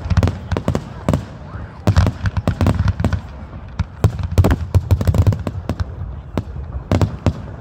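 Fireworks display: many aerial shells bursting in rapid, overlapping cracks and booms, coming in clusters with a brief thinner stretch about six seconds in.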